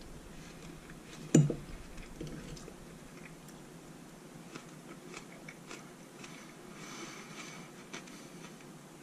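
A man chewing a mouthful of baked fish with fruit-and-onion salsa, with faint scattered mouth clicks. One brief louder sound comes about a second and a half in.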